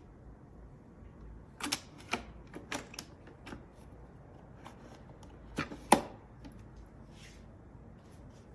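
A series of irregular clicks and knocks, like hard plastic or other hard objects being handled and set down, with the loudest knock about six seconds in.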